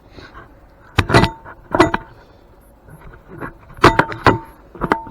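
Metal knocking and clinking against metal: about six sharp strikes in two groups, several leaving a short ring, as tools and iron mill parts are handled.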